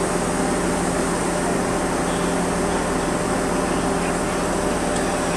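Steady train noise: an even hiss with a constant low hum, with no distinct knocks or changes.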